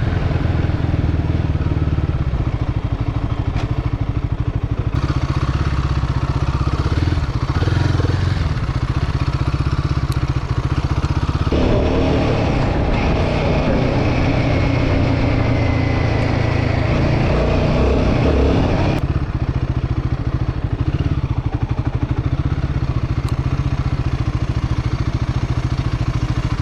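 Royal Enfield Guerrilla 450's single-cylinder engine running as the motorcycle is ridden, a steady low pulsing note that changes abruptly in tone a few times.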